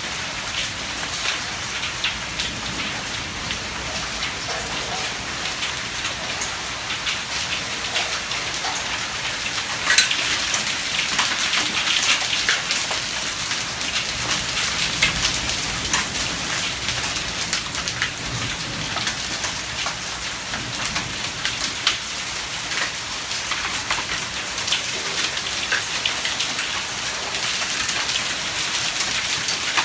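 Heavy rain mixed with hail striking hard surfaces: a dense hiss full of sharp ticks, growing heavier about ten seconds in.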